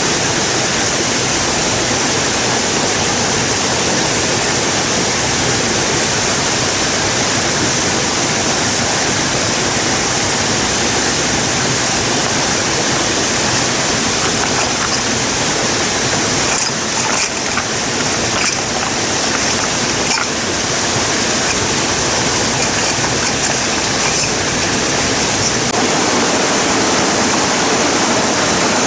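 Steady, loud rush of water, with a few faint taps about halfway through.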